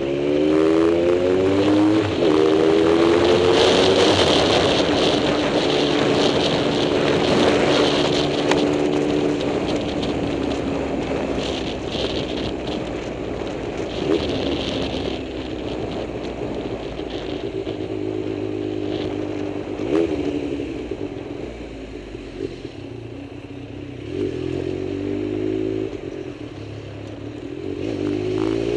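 A vehicle engine under way, revving up in the first couple of seconds, then holding a steady speed. It picks up and revs up again near the end. There is some light clatter, with a single sharp knock about twenty seconds in.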